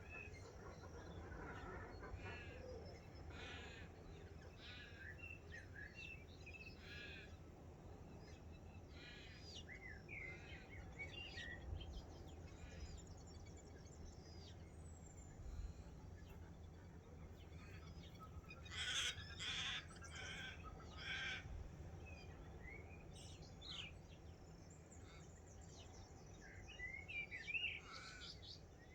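Morning bird chorus: several wild birds calling and chirping at once, with a run of louder calls about two-thirds of the way through and another near the end, over a faint low background rumble.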